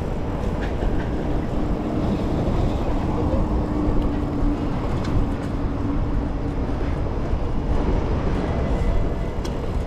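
Wind rushing over the microphone of a camera on a moving bicycle, a steady low rumble with a few light ticks.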